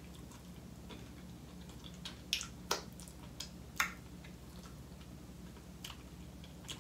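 A person chewing french fries with her mouth closed: a handful of sharp clicks, most between about two and four seconds in and one near six seconds, over a steady low hum.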